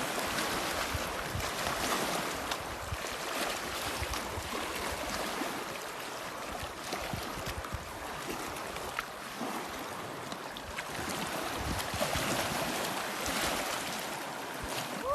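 Lake water splashing and lapping around a swimmer: a steady wash of small splashes and drips.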